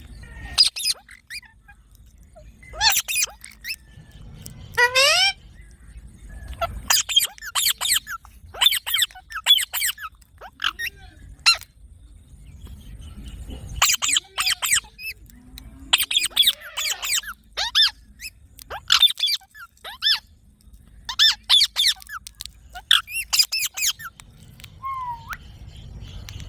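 Rose-ringed (Indian ringneck) parakeet giving repeated shrill calls in short clusters, some notes sweeping up or down in pitch, with pauses of a second or two between clusters.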